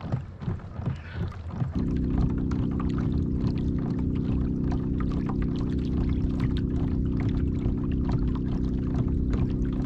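A steady low hum with several even tones starts suddenly about two seconds in and holds unchanged, with water splashing and trickling over it.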